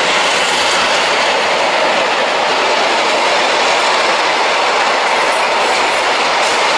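A train passing close by: a loud, steady rush of wheels on the rails as the coaches go past.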